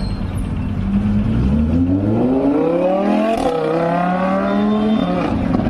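Lamborghini engine accelerating hard, its note climbing steadily in pitch. About three and a half seconds in there is a brief dip as it shifts up, then it climbs again before dropping away about five seconds in.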